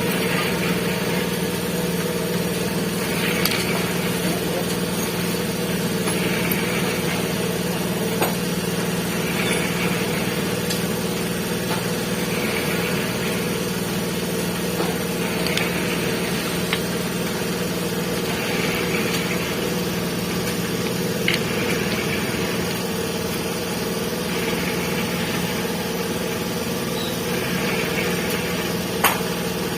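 Steady motor hum running throughout, with a few sharp clicks, the loudest near the end.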